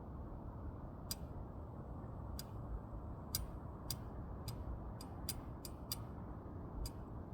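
Wood fire burning, with a steady low rustle and about ten sharp crackling pops at irregular intervals from the burning firewood.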